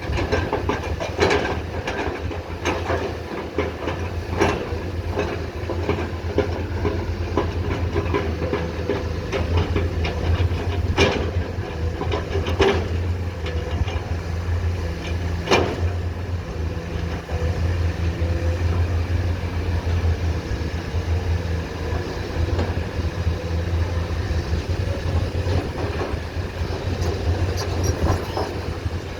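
Komatsu PC210 excavator's diesel engine running steadily, with several sharp metallic knocks from the bucket and arm as it works.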